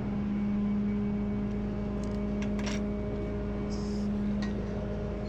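Truck engine idling steadily, a constant low hum over a rumble, with a few faint clicks.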